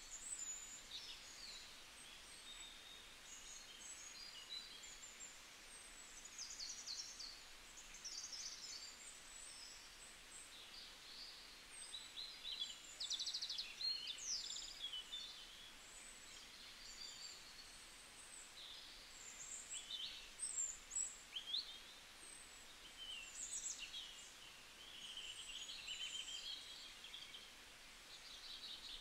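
Small birds chirping and twittering in short trills and quick rising and falling calls, scattered throughout over a faint steady hiss.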